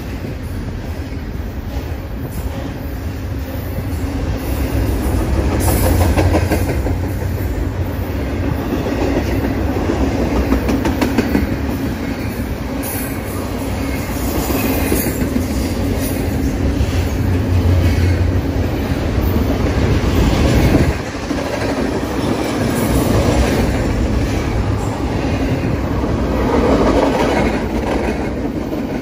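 BNSF double-stack container train's well cars rolling past: a steady low rumble with rapid clicking of wheels over the rail, the level swelling and easing as the cars go by.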